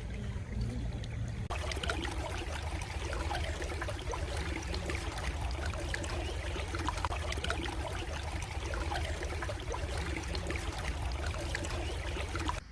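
Stream water trickling and burbling steadily over a low rumble, growing brighter and fuller about a second and a half in.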